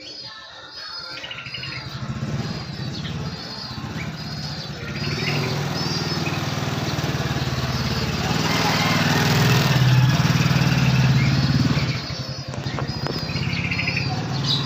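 A small bird chirping in short repeated notes, about two a second, over a passing engine whose low hum swells to its loudest about ten seconds in and drops off about two seconds later.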